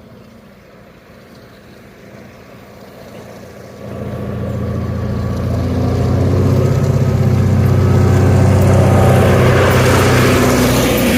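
Diesel freight locomotive approaching: its engine drone comes in about four seconds in and grows steadily louder, with a low steady hum under it.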